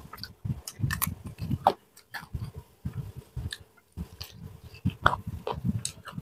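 Close-up chewing and biting of fried duck: irregular wet mouth sounds broken by many short crisp clicks, with brief pauses about two and four seconds in.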